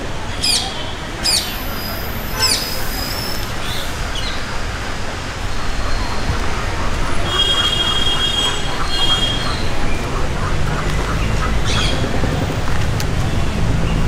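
Bird squawking in short, repeated calls that sweep down in pitch, about two a second, dying away a couple of seconds in, with a few scattered calls later over a steady low background rumble.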